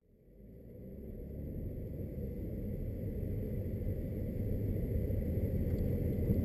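Cabin sound of a 2014 Chevy Cruze's 2.0-litre single-turbo diesel on the move: a low engine and road rumble that fades in over the first couple of seconds and then runs steadily.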